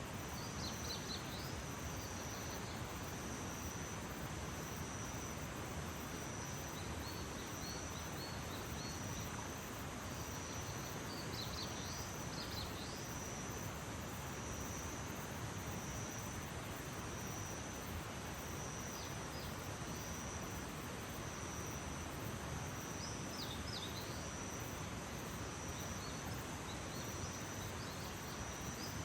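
Early-morning outdoor ambience: insects trilling steadily at a high pitch, with small groups of short, falling bird chirps every few seconds over a soft background hiss.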